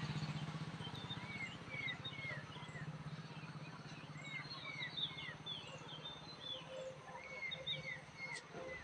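Small birds chirping, many short falling notes repeated over and over. A low engine hum from passing traffic fades out over the first few seconds, and a single sharp click comes near the end.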